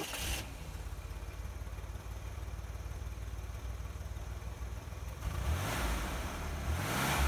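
Chevrolet Corvair's air-cooled flat-six, a 1969 engine fitted with a new FAST XR700 optical-trigger electronic ignition, idling steadily just after starting. The revs rise briefly twice near the end.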